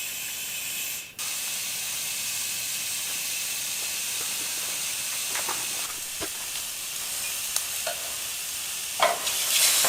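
Kebabs and garlic toast sizzling as they cook, a steady hiss with a few light clicks and a louder rush of sizzle near the end.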